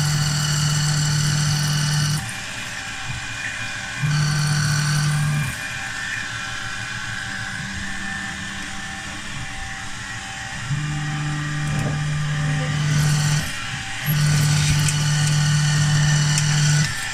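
Motor whine from a CNC milling machine, most likely its stepper-driven axes moving: a steady fixed-pitch tone that starts and stops four times, in stretches of about one and a half to three seconds, over background music.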